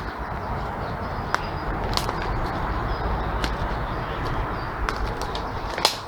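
Outdoor walking noise on a phone microphone: a steady rumble and rustle of wind and handling, with scattered sharp clicks and a few faint, short, high bird chirps.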